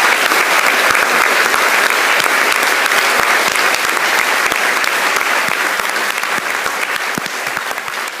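Audience applauding and cheering, steady at first and slowly dying away toward the end.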